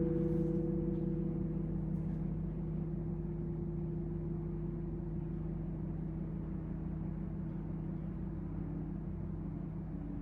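Singing bowls in a sound bath, several steady tones ringing together and slowly fading away, a new higher tone joining just before the start.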